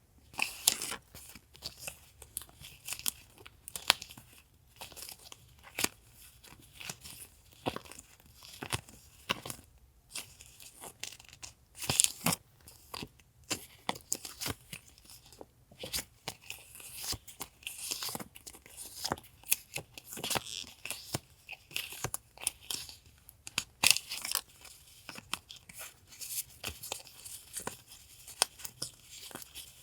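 Paper stationery and its packaging handled on a desk: an irregular run of crisp crinkling, rustling and tearing, broken by sharp little clicks and taps and a few short pauses.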